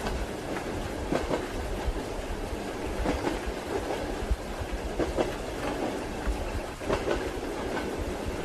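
Railway carriage wheels clicking over rail joints in irregular groups every second or two, over a steady rumble and hiss of a train in motion.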